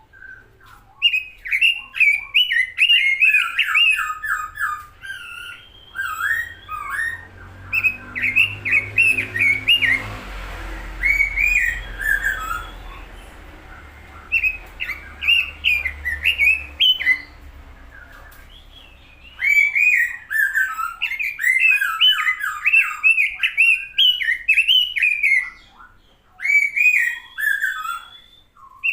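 Pekin robin (red-billed leiothrix) singing hard in rapid runs of quick up-and-down notes, in bursts broken by short pauses.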